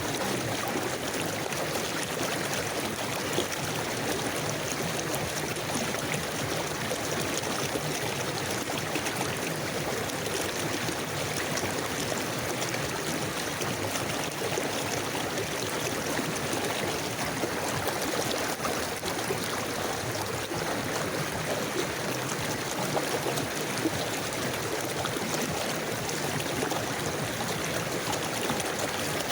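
River water flowing and babbling over stones in a steady, unbroken rush.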